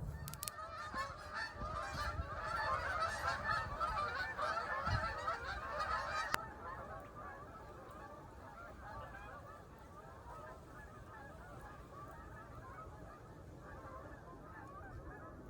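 A flock of geese honking, many calls overlapping; the calls are loudest for about the first six seconds, then fainter.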